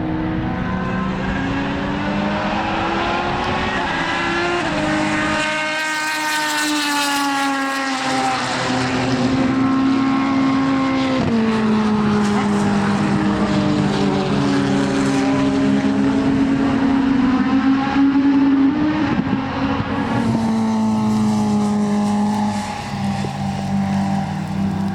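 Racing car engine running hard on a circuit, its pitch climbing and dropping with sudden steps at the gear changes, with a sweeping change in pitch as it passes.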